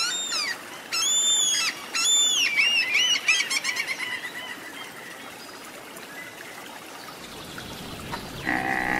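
Black-legged kittiwake calling: a series of repeated rising-and-falling notes over the first four seconds or so, fading into a steady background hiss. Near the end a louder call from another animal begins.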